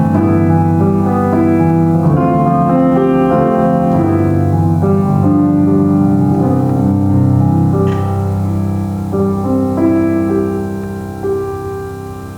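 Solo piano playing sustained chords with a moving melody, held notes ringing into one another. The playing grows softer in the second half and fades away as a phrase closes near the end.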